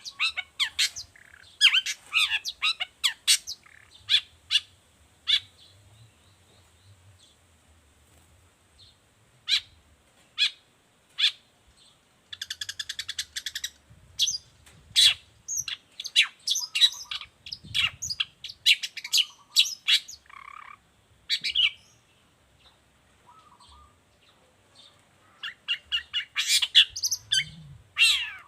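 Long-tailed shrike (cendet) singing a rapid, varied run of sharp chirps and harsh buzzy rattles. It pauses for a few seconds, then breaks into a fast trill near the end.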